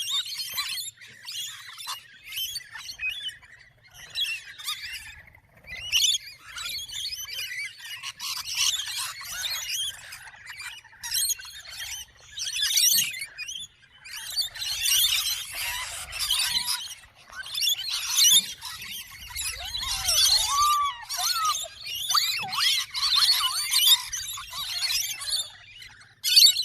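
A group of birds chirping and squawking, many overlapping high calls in busy bouts that come and go every few seconds.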